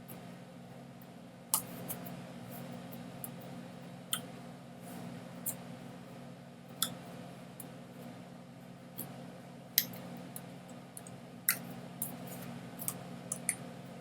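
A dozen or so sharp clicks at irregular intervals over a steady low hum.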